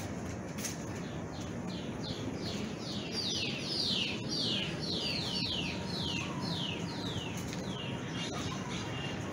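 A bird calling a long series of quick, downward-slurred high notes, about two or three a second. The notes grow louder through the middle and fade near the end, over a steady low background rumble.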